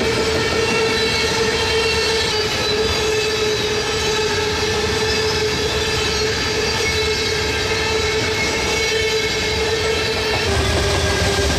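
Loaded coal hopper cars of a long freight train rolling past, steel wheels rumbling on the rails with a steady wheel squeal over it, which dips slightly in pitch near the end.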